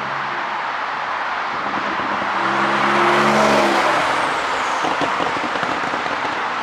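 Porsche 911 (992) Carrera's twin-turbo flat-six exhaust, the engine note swelling to a peak about three seconds in and then easing off.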